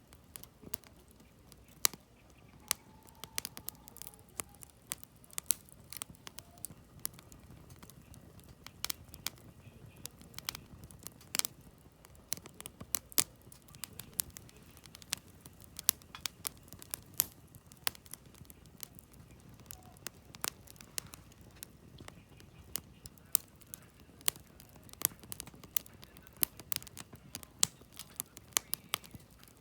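Campfire of firewood crackling: irregular sharp pops and snaps, sometimes several in quick succession, over a low steady rumble of the burning fire.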